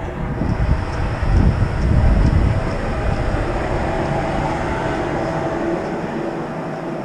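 Wind buffeting the microphone in uneven gusts, heaviest a second or two in, over the steady hum of a cruise ship's machinery.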